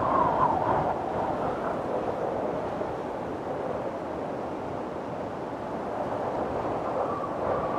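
Windstorm: strong wind blowing and gusting, with a faint whistling howl that swells in the first second and again near the end.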